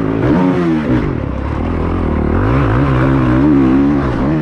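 Motocross dirt bike engine under hard throttle on a track: it revs up and down, drops off briefly about a second in, then pulls back up and holds high revs.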